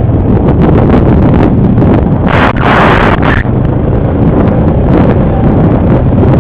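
ATV engine running steadily under the ride, with wind buffeting the microphone. There are two brief, louder rushes of noise about two and a half and three seconds in.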